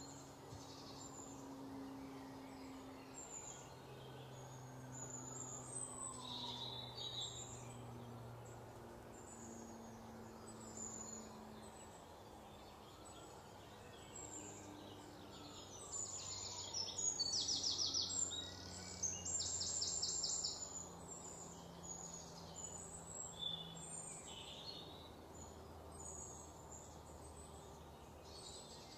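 Birds chirping and calling over a low steady background hum outdoors, with a louder burst of fast repeated notes a little past halfway.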